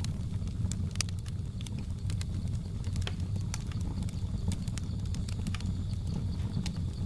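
Wood fire crackling, irregular sharp pops and snaps over a low steady rumble. A faint, thin high steady tone comes in over the second half.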